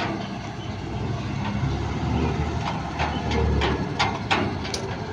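Heavy diesel engine running steadily, with several sharp clanks in the second half.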